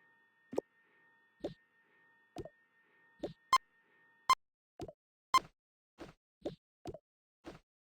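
A run of short, soft pop sound effects, roughly two a second. Three of them in the middle are louder and carry a bright ringing ping. A faint steady tone hums under the first half and stops suddenly just after the second loud ping.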